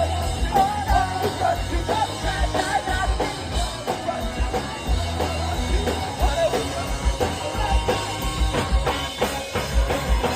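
Live rock band playing, with a drum kit keeping a steady beat under electric guitars and a wavering melodic line.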